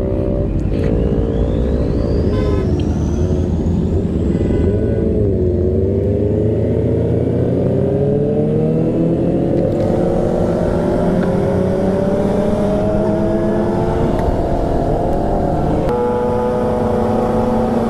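Motorcycle engine running at speed. Its pitch wavers up and down for a few seconds, then climbs slowly and steadily as it gains speed, and shifts about two seconds before the end.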